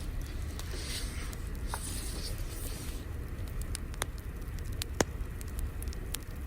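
Crackling fire: a steady low rumble with scattered sharp pops and snaps, the loudest pop about five seconds in, and soft hissing in the first few seconds.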